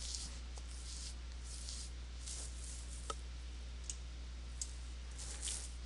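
A few faint computer mouse clicks, three short ticks about a second apart in the middle, over a steady low hum and hiss.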